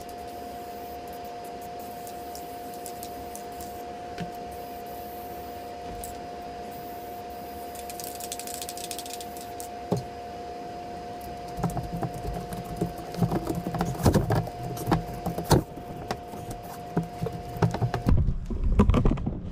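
Handling noises as a foam floor panel is laid and pressed down onto a boat deck: scattered knocks, taps and rustling, sparse at first and busier in the last third, over a steady hum that stops near the end.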